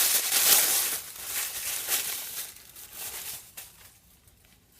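Crinkling and tearing as a homemade pipe is pulled open by hand, loud at first and dying away over the next few seconds.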